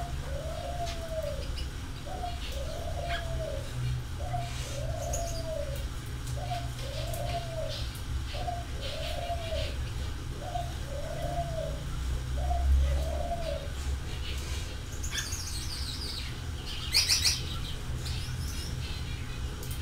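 A bird cooing in a steady series, about one rising-and-falling coo a second, which stops about two-thirds of the way through. A few short high chirps follow near the end, the loudest about three-quarters of the way in, over a low steady rumble.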